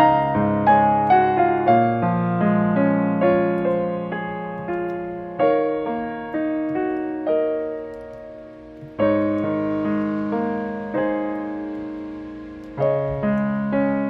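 Background piano music: slow, gentle chords and single notes, each struck and left to ring and fade, with longer held chords in the second half.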